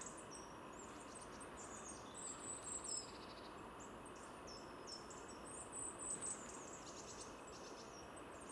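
Faint high-pitched chirps of small songbirds: many brief, sliding notes repeated throughout, over a soft background hiss.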